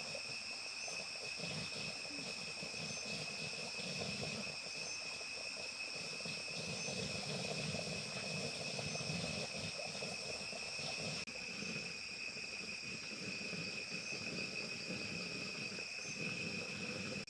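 Insect chorus trilling steadily on two high, unbroken pitches, over an uneven lower rustle of activity; the sound changes abruptly about eleven seconds in.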